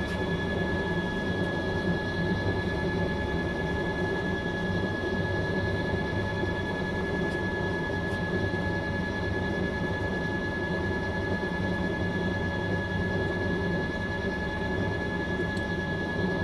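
Fisher & Paykel MW059 top-loading washing machine spinning steadily, its motor giving a constant high whine over a low rumble.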